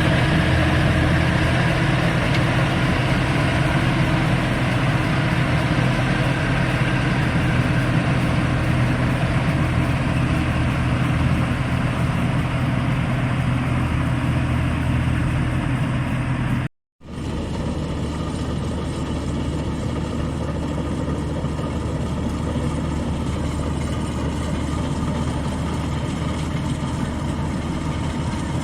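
Rice combine harvester's engine running steadily under load while harvesting. The sound breaks off for a moment about seventeen seconds in, then resumes a little quieter.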